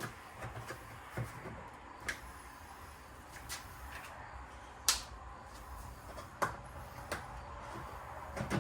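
Scattered clicks and knocks of shelving-unit parts being handled and pushed together during assembly, sharpest about five seconds in and again a second and a half later, over a faint steady low hum.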